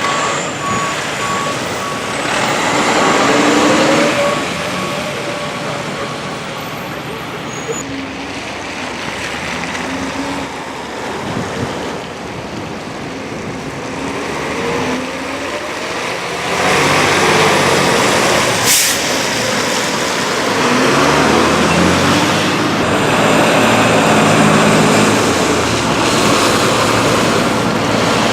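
Fire truck's diesel engine running and revving as it manoeuvres, with a steady reversing beeper for the first few seconds. About 19 seconds in there is a single sharp air-brake hiss.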